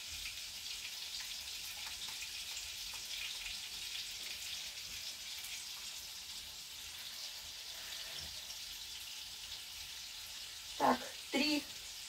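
Meat-and-cabbage cutlets frying in a pan with a steady sizzle.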